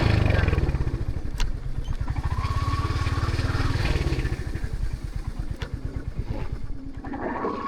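Royal Enfield Hunter 350's single-cylinder engine running at low revs with an even thump. Its beat slows and fades over the last few seconds.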